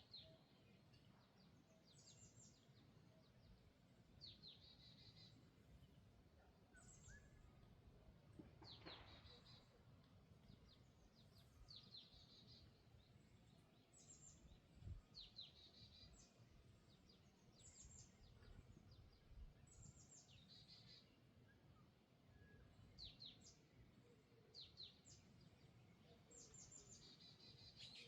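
Faint calls of small birds, each a quick cluster of high chirps, repeating every second or two over a low steady rumble.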